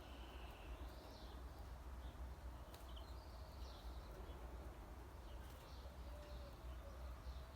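Faint, scattered bird chirps and short calls in an outdoor natural soundscape, over a steady low rumble and hiss.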